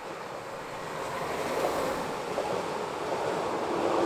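Electric multiple-unit passenger train passing close by: a rushing rumble of wheels on the rails that grows steadily louder as the train comes near.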